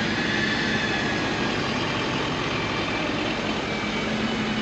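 Recovery winch pulling its rope taut to drag a stuck truck, over a steadily running truck engine, with a whine that is strongest in the first second or so.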